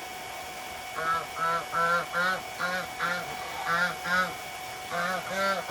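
Domestic geese honking: a rapid series of short, repeated honks, about three a second, beginning about a second in.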